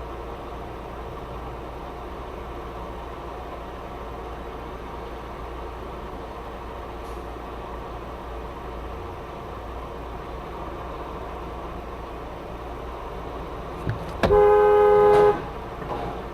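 Steady engine and road noise from a car in traffic, then a car horn sounds loudly once, held for about a second near the end.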